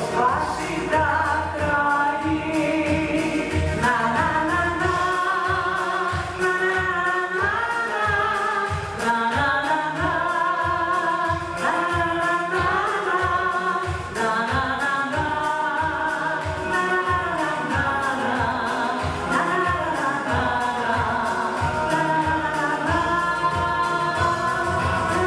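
A song sung with instrumental accompaniment: a held, gliding sung melody over a steady beat of about two pulses a second.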